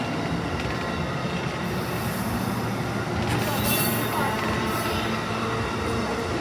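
Amtrak passenger train rolling past at close range: a steady rumble of cars on the rails, with brief high wheel squeals a few times.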